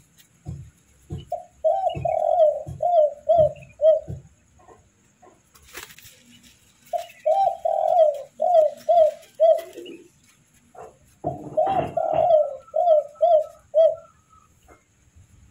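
Young spotted doves calling in three runs of short, quick, downward-curving notes, the second run ending on a falling note. Soft low knocks come between the notes of the first run, and there is a brief clatter between the first and second runs.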